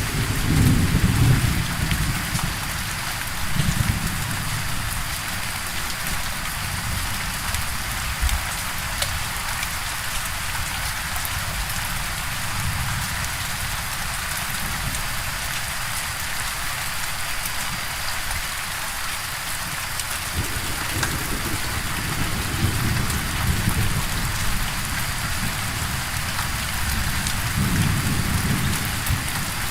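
Steady heavy rain with low rumbles of thunder rolling in and out, strongest at the start and again near the end.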